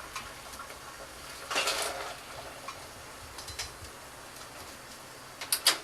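Kitchen handling noise while green beans go into a pot of hot water to blanch: small clinks of utensils and pot, with a brief rushing noise about a second and a half in and two sharp clinks near the end.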